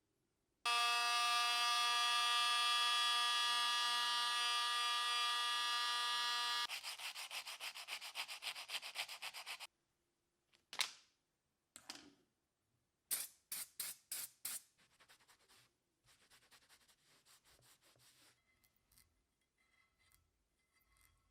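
Metalworking on a cast-iron vise: a small power tool whines at a steady pitch for about six seconds and cuts off, then a quick run of even rubbing strokes follows. Scattered short scrapes and rubs come after it and fade.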